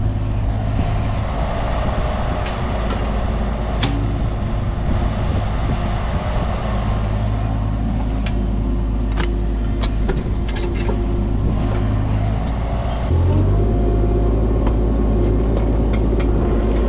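Small Caterpillar machine's diesel engine running steadily while digging, with scattered clanks and knocks. About thirteen seconds in, the engine note steps up and gets louder.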